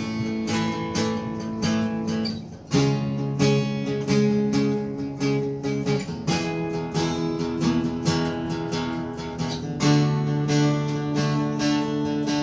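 A guitar is strummed as the instrumental intro of a song. The chords ring on with repeated strums and change about every three to four seconds.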